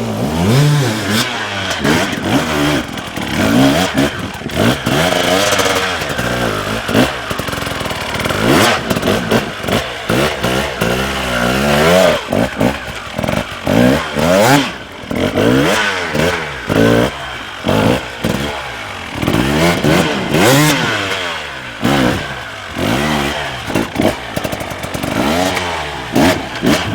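Dirt bike engines revving in short bursts, the pitch climbing and dropping again and again as the throttle is worked, with clattering knocks scattered through.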